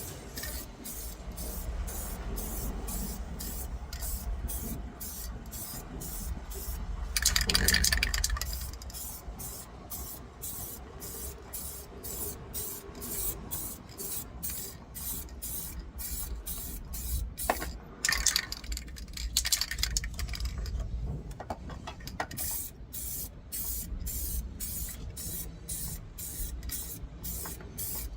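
Paint being sprayed onto a truck engine: two bursts of spraying hiss, one about seven seconds in lasting a second and a half, and a longer, broken one about eighteen seconds in.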